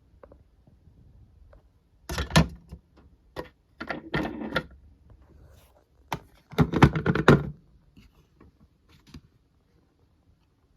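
Hard plastic toy parts being handled, clattering and clicking in a few short bursts. The loudest bursts come about two seconds in and again around seven seconds.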